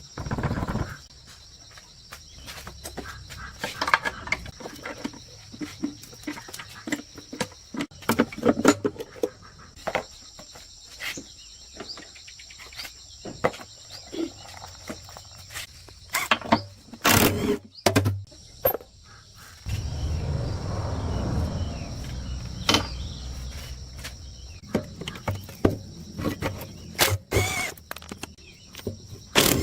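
Irregular clicks and knocks of hand work, with insects calling steadily in the background. A rushing noise rises for about three seconds past the middle.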